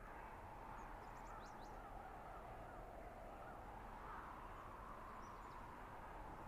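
Steady blizzard wind in a forest, with a few faint high bird chirps about a second in and again around five seconds in.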